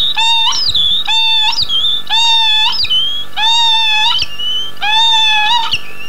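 A bird calling over and over, about one call a second, each call a short pitched note that ends in a quick upward sweep.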